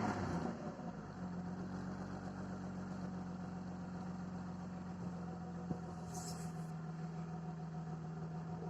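Audi 100 C4's 2.8 V6 (AAH) engine heard at its exhaust, which runs through a flame arrestor fitted in place of the catalytic converter. The revs die away in the first second, and the engine then idles steadily with an even low drone.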